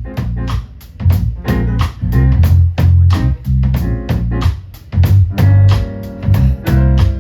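Live band playing an instrumental passage with no singing: guitar over bass notes and a drum kit keeping a steady beat.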